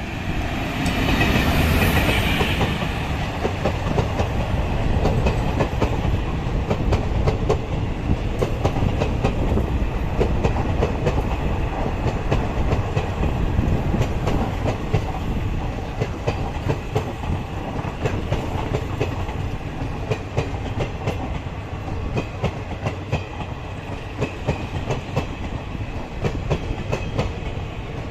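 A passenger express train hauled by a WAP-4 electric locomotive passing at speed. There is a loud rush about a second in, then a long run of coaches rumbling past with a steady clickety-clack of wheels over the rail joints.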